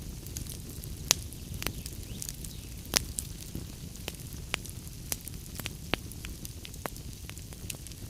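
Wood fire in a fireplace burning with a steady low rumble and irregular sharp crackles and pops, the loudest about a second and three seconds in.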